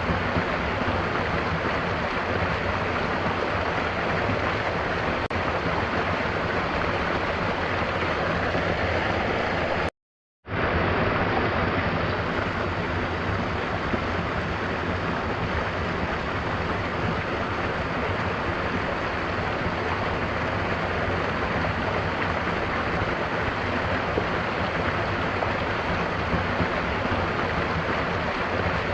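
Mountain waterfall: a steady rush of falling water, broken by a sudden half-second cut to silence about ten seconds in.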